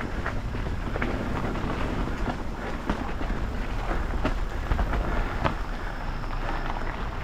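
Mountain bike riding down a rough dirt trail: a steady low rumble of wind on the camera microphone and tyres on dirt, with the bike's chain and frame rattling in scattered clicks and knocks.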